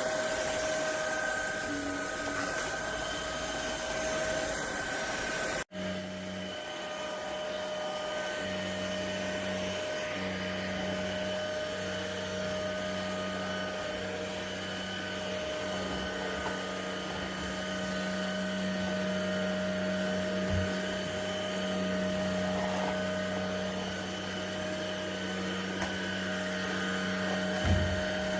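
ElecKeys K10 cordless stick vacuum running steadily with a high motor whine. It drops out for an instant about six seconds in, then carries on with a lower hum that comes and goes beneath the whine.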